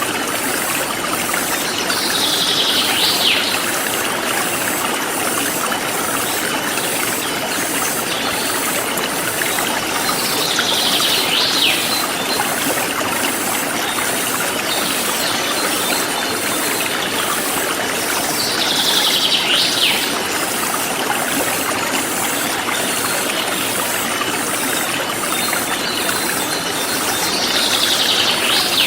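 Forest stream flowing with a steady rush of water. A bird call, a short burst ending in a falling note, comes four times about eight seconds apart, over a fast, even high pulsing like insects chirping.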